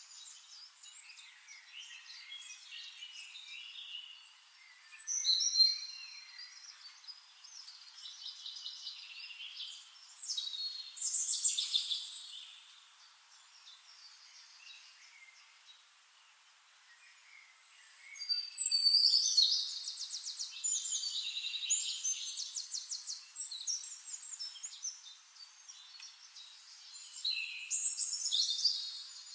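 Songbirds singing: phrases of high chirps and fast trills, loudest at about five and eleven seconds in, through a longer run from about eighteen to twenty-three seconds, and again near the end.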